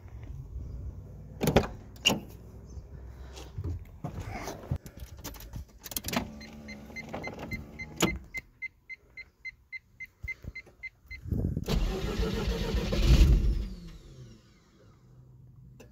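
Car door and interior clicks, a rapid electronic warning beep for about two seconds, then a Mazda FC RX-7's 13B rotary engine cranking on the starter and briefly firing before it dies away, having just had its intake manifold reinstalled.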